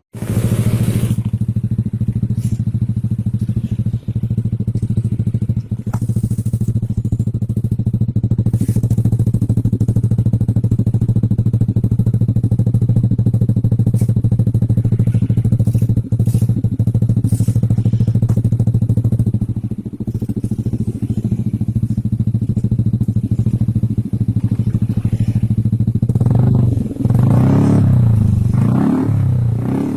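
Yamaha NVX 155 (Aerox 155) scooter's single-cylinder engine running through an F2 Racing stainless full-system aftermarket exhaust, idling steadily, then blipped several times near the end.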